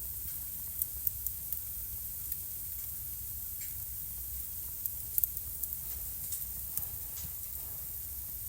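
Wood fire crackling in a home fireplace: a steady hiss with scattered sharp pops, a few close together about five seconds in.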